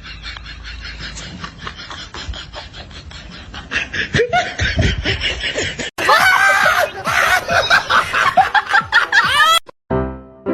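Snickering laughter mixed with music, dense and busy, cutting off abruptly near the end into piano notes.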